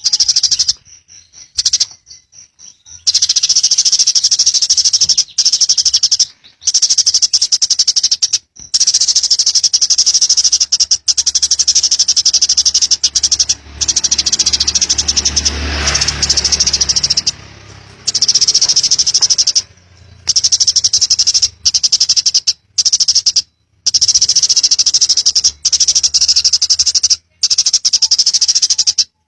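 Eurasian tree sparrow chattering in long, very fast high-pitched trills, broken by short pauses.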